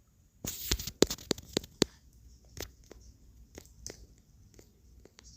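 Paper rustling, then a quick run of sharp flicks and clicks followed by a few scattered clicks: pages being leafed through to find a Bible verse.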